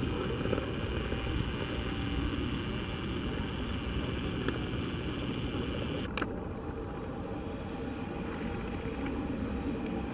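Steady rumbling noise of a railway line, with a sharp click about six seconds in where the footage cuts; after it, a WAP-4 electric locomotive-hauled train is heard approaching from a distance, faint and steady.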